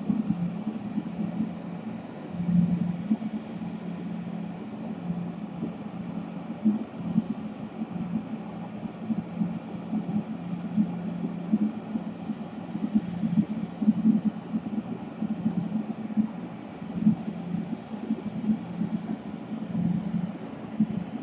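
A low, steady hum with irregular louder swells every second or so, over a faint hiss.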